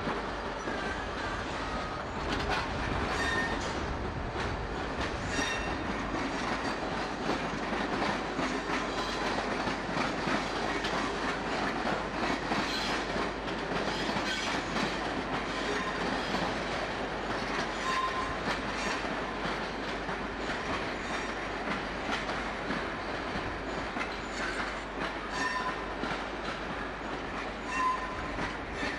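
British Rail locomotive-hauled passenger coaches rolling over station pointwork, wheels clicking over rail joints and crossings, with brief high wheel squeals now and then on the curves.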